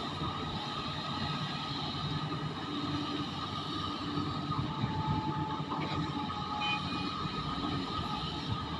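Heavy mining machinery running steadily: the diesel engines of a large excavator and dump trucks working an open-pit nickel ore mine, with a few faint brief tones over the engine noise midway.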